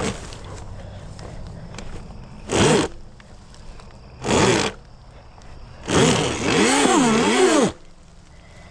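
Electric dirt bike stuck on a log, given three short bursts of throttle. The motor whine swoops up and down over a scrubbing hiss as the rear wheel spins. The last burst is the longest.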